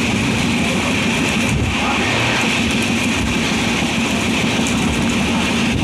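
Express passenger train running at speed, heard from aboard: steady rumble and wheel-on-rail noise.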